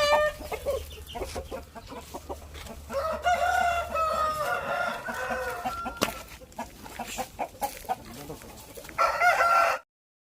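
Aseel chickens calling: a long rooster crow starting about three seconds in, with shorter calls at the start and near the end, and scattered clicks in between.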